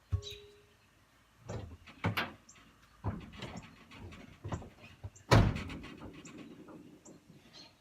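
A string of knocks and thumps from the truck's cab and door, the loudest a door shutting about five seconds in, with a short rumble after it. Birds chirp faintly.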